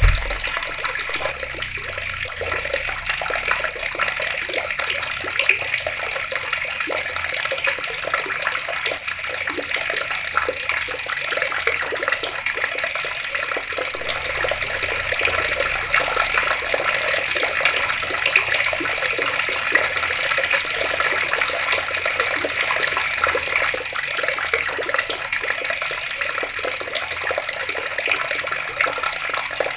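Water running steadily from an outdoor tap and splashing, a continuous even rush. A brief low thump comes right at the start.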